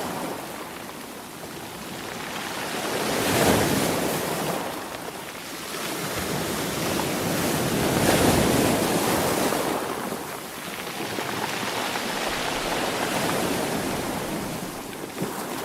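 Sea waves surging in and drawing back. The rush swells and fades about every four to five seconds and is loudest about eight seconds in.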